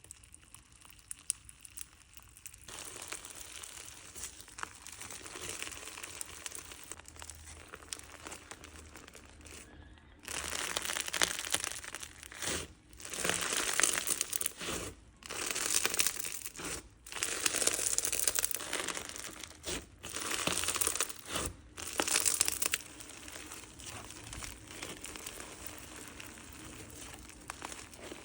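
Crunchy bingsu slime, filled with small plastic bingsu beads, being squeezed and worked by hand, crunching and crinkling. It is soft at first; from about ten seconds in comes a run of louder squeezes, each a second or two long with short pauses between, and it grows soft again after about 23 seconds.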